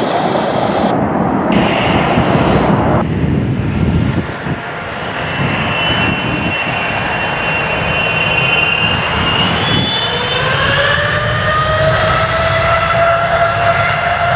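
Jet airliner engines running loudly, a dense roar with high whining tones. About ten seconds in, a set of whines rises in pitch and then levels off, typical of the engines spooling up to take-off thrust.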